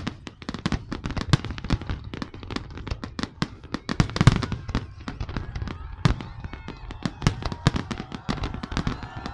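Fireworks going off in a rapid, irregular string of bangs and crackles, several a second, with the heaviest bang about four seconds in.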